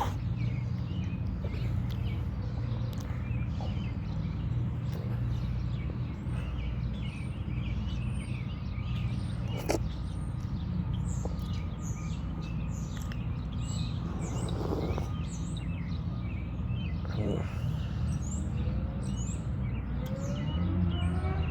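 Birds chirping over and over in short calls above a steady low hum, with one sharp click about ten seconds in.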